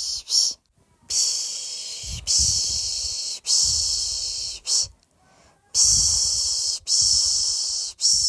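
Rhythmic 'piş piş' shushing for lulling a baby to sleep: long 'shh' sounds of about a second each, in groups of three followed by a short one, with a brief pause about half a second in and again about five seconds in.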